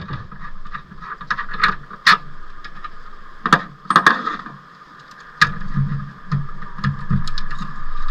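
Hand tools and bolts clinking, knocking and scraping on the car's metal parts in a string of sharp, irregular clicks, with a few duller thuds a little past halfway, over a steady faint hum.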